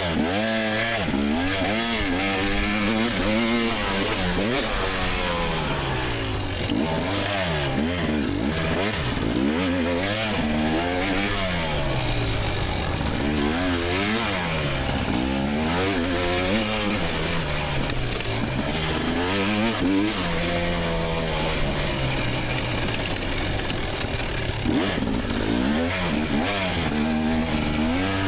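2024 GasGas EX300 two-stroke dirt bike engine revving hard and falling back over and over, its pitch climbing and dropping every second or two with the throttle and gear changes.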